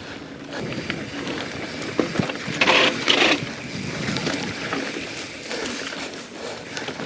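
Mountain bike ridden fast over rough singletrack, heard on the rider's action camera: a continuous rough rumble and rattle of tyres and bike over the trail, with two louder, harsher bursts about three seconds in.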